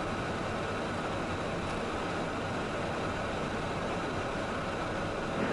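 Steady, even rushing noise in the cockpit of a Cessna Citation jet in flight, from airflow and engine noise.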